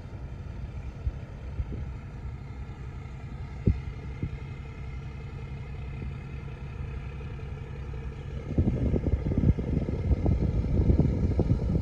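A squid-fishing boat's engine running steadily as the boat heads out, a low hum with a steady drone above it. About eight seconds in, a louder rough rumble with crackles joins it.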